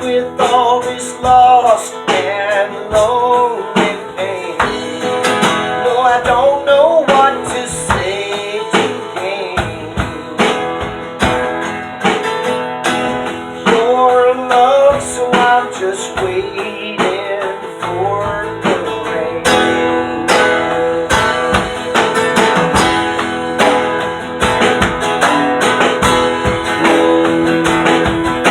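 Folk-rock band playing: strummed guitar over bass and drums, with a wavering melody line through the first half.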